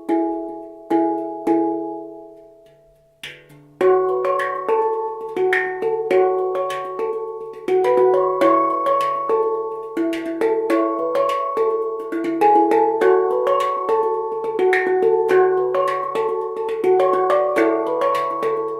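Handpan in the Humming Bird D scale (D, E, F#, G#, A, B, C#, D) played by hand: a few ringing notes fade almost to nothing about two and a half seconds in, then from about four seconds a fast, continuous run of struck notes, with the low D ding ringing underneath.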